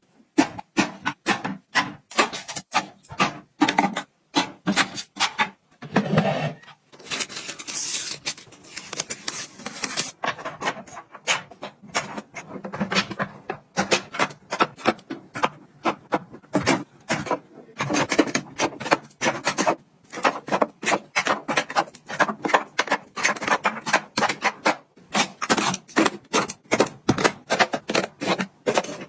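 Hands handling and setting down small objects: a quick run of sharp clicks, taps and knocks, with rubbing and a rustling, scraping stretch a few seconds in.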